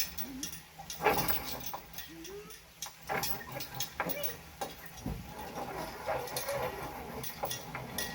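Afghan hound making short whining, bleat-like vocalizations several times during play.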